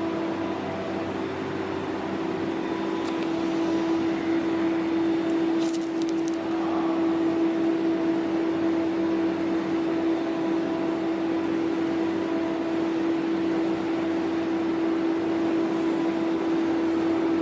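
A Weichai diesel generator set (WP6D132E200 engine) running at a steady, constant speed, giving an even hum. There are a few brief clicks near the middle.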